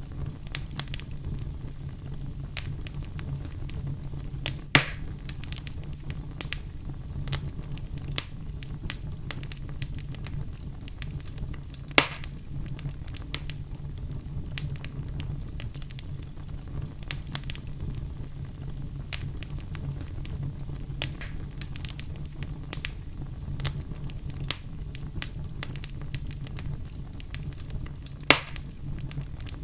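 Wood fire burning in a fireplace, crackling with a steady run of small snaps over a low rumble of the flames. Three louder single pops stand out: about five seconds in, about twelve seconds in, and near the end.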